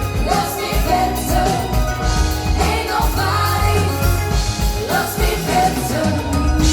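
Live pop band playing with a singer over steady bass and drums, recorded from the audience.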